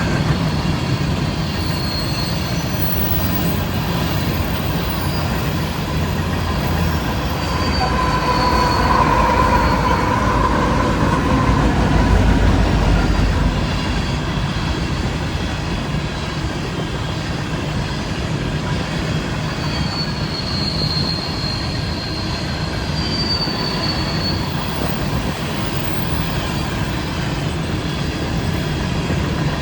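BNSF coal train's cars rolling past with a steady rumble of steel wheels on rail. Faint high wheel squeals come and go, and the rumble swells for a few seconds around the middle.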